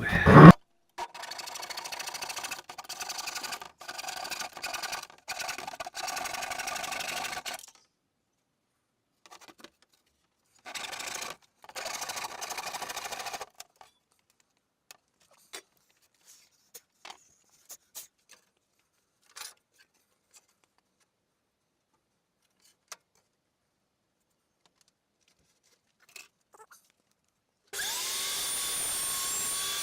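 Small flooring saw, a compact power saw, cutting through a board in two runs of several seconds, the second short. Scattered clicks and knocks follow, and near the end a power tool starts up again with a whine that shifts in pitch.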